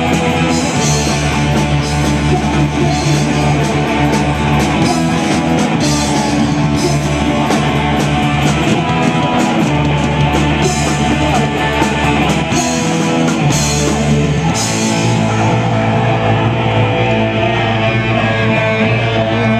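A rock band playing an instrumental passage with guitar, bass and drum kit. About three-quarters of the way through, the drums and deepest bass drop away, leaving the guitar sounding on its own.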